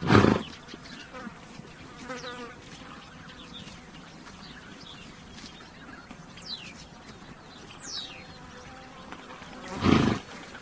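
A horse snorts twice, short and loud, once right at the start and again about ten seconds in. Between the snorts flies buzz steadily, and birds give a few quick falling chirps.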